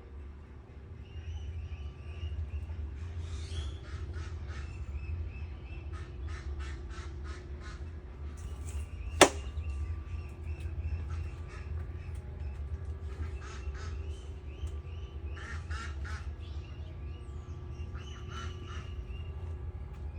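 Birds calling in repeated runs of short notes, with a steady low rumble underneath. A single sharp click about nine seconds in is the loudest sound.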